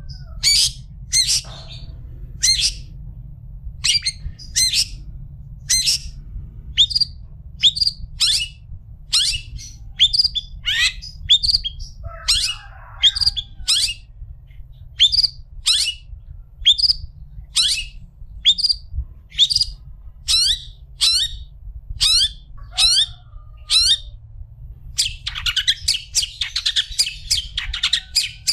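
Long-tailed shrike (cendet) calling: a long series of short calls, about one or two a second, each sliding down in pitch. About 25 s in, these run together into a fast, continuous chatter.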